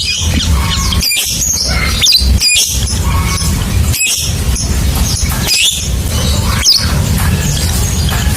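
Lovebird chattering in a long run of shrill chirps and squeaky rising and falling calls, over a steady low rumble.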